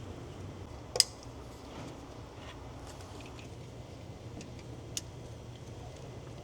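Hand tools and parts being handled on an engine, giving one loud sharp click about a second in, a fainter click about five seconds in and a few light taps, over a low steady hum.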